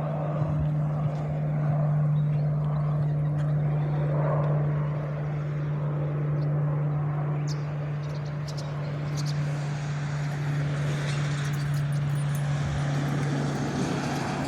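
Pilatus PC-21 turboprop trainer climbing away after take-off: a steady low propeller drone with a wash of engine noise that grows brighter in the second half.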